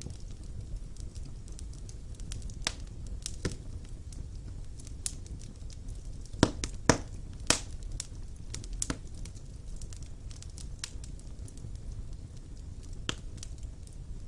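Wood fire burning in a fireplace: a steady low rumble of flames with irregular sharp crackles and pops, a quick cluster of louder pops about halfway through.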